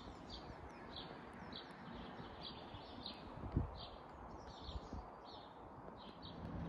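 A small bird chirping over and over, short high chirps about twice a second, over a low steady background rumble; one dull thump about halfway through.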